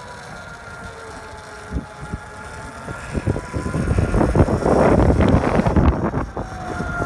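Electric dirt bike's BHT 1000 W brushless motor whining faintly, its pitch sliding slowly. From about three seconds in until near the end, a loud rush of wind noise on the microphone covers it.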